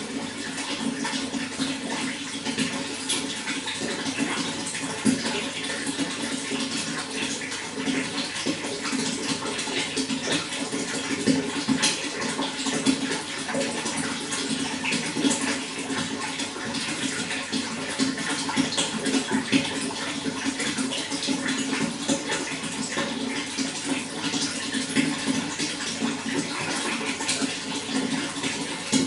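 Running water flowing and splashing steadily, a continuous rushing with many small splashes.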